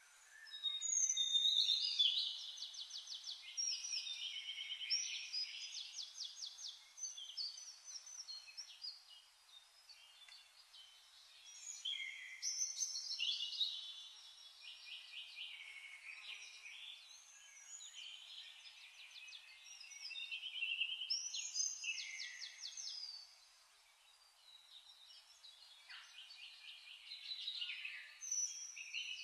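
Birdsong in bouts of rapid trills and warbled phrases, several seconds each, with quieter gaps between them.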